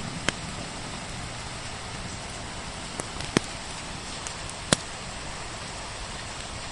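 Steady hiss of falling rain with a crackling wood fire: about five sharp pops, two of them louder about three and a half and four and a half seconds in.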